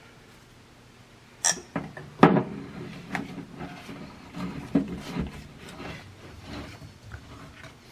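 Scattered knocks and clunks of hand work on a gas water heater's thermostat gas control valve as it is taken out, with a few sharp hits, the loudest about two seconds in, some leaving a short ring.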